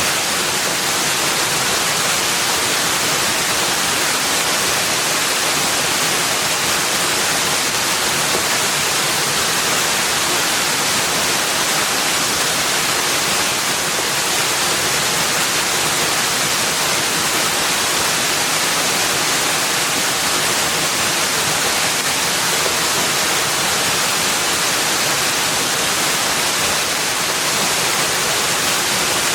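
Steady, even rushing of water, a constant hiss-like wash with no separate splashes or changes.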